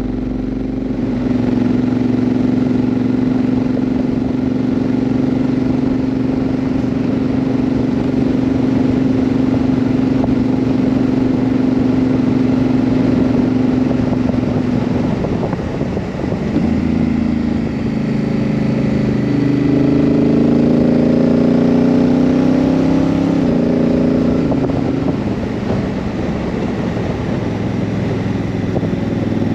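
Honda CRF1000L Africa Twin's parallel-twin engine running at a steady pitch for about fifteen seconds, then rising and stepping up and down in pitch as the dual-clutch gearbox shifts, before settling steady again near the end.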